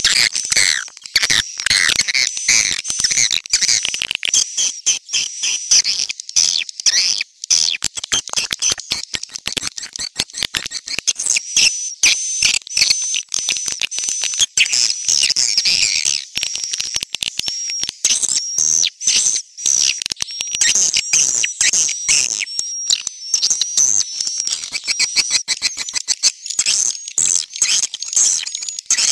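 Swiftlet lure call: a dense, unbroken stream of rapid high-pitched chirps and twittering from a flock of swiftlets, the kind of recording played at a swiftlet house to draw the birds in to roost and nest.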